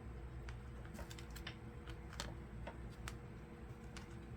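Faint, irregular light clicks and taps of oracle cards being handled and laid down, one card after another.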